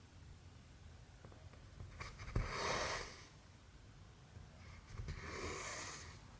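Cotton embroidery thread pulled through cross-stitch fabric twice, each pull a rasping swish of about a second; the first starts with a light tap.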